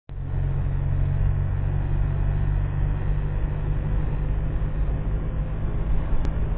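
Volvo Amazon estate's B20 two-litre four-cylinder engine with twin SU carburettors running steadily under way, with road noise, heard from inside the cabin. A brief click about six seconds in.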